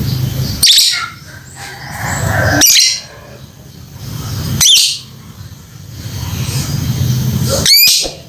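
A lovebird giving loud, sharp contact calls, four in all, about two seconds apart: calling out to a companion bird. A low steady rumble runs underneath.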